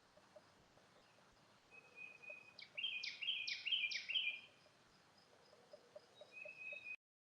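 A songbird singing: a short steady whistle, then a quick run of about four loud falling, sweeping notes, and another steady whistle a couple of seconds later. Faint soft ticks sit underneath, and the sound cuts out abruptly near the end.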